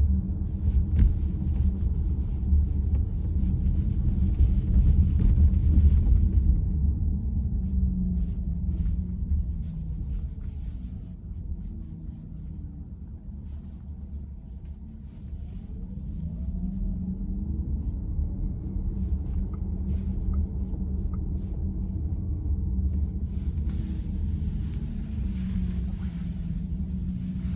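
Car running on the road, a steady low rumble of engine and tyres heard from inside the car. The engine tone rises and falls, and the level dips through the middle before building again.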